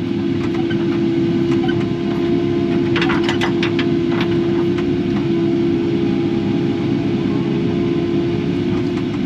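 Kubota KX080 excavator's diesel engine running steadily at working speed, with a steady whine over it. A few light clanks come about three seconds in.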